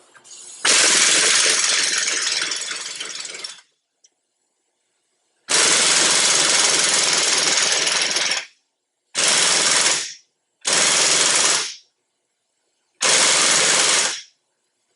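Impact wrench hammering in five bursts: two long runs of about three seconds each, then three short ones, with pauses between. It is working the hub off a John Deere 820 tractor's rear axle.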